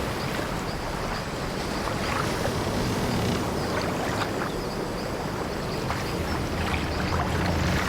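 Sea waves washing around an old wooden sailing ship, with a low rumble that swells and eases and short creaks from the ship's timbers.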